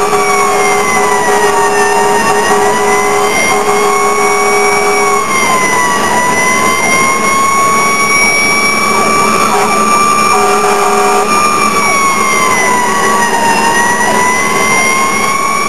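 Fire engine siren wailing, its pitch falling and rising slowly, with a few seconds between low points. A steadier lower tone sounds beneath it for the first five seconds or so and again for a few seconds midway.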